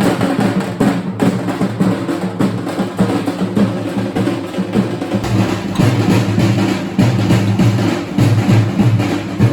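Loud drumming, a fast, dense beat kept up without a break.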